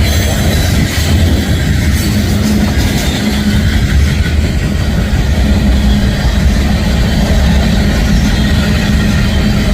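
Union Pacific manifest freight train passing at close range: freight cars rolling by with a steady low rumble and wheel clatter.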